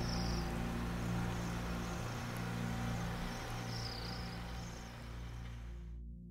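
A few faint bird chirps over outdoor hiss and a low steady drone; the hiss cuts off suddenly about six seconds in while the drone goes on, fading.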